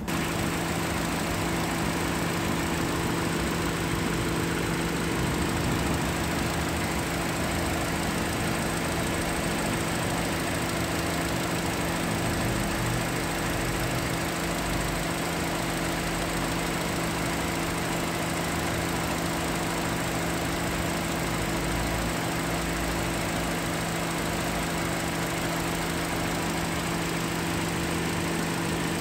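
Toyota RAV4 engine idling steadily under the open hood, with a constant hum holding the same pitch throughout.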